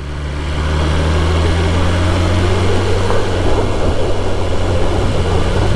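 BMW S1000RR's inline-four engine running at steady low revs while the bike is ridden, with wind rushing over the helmet microphone; the sound swells over the first second and then holds steady. The bike is running with an engine-control fault warning.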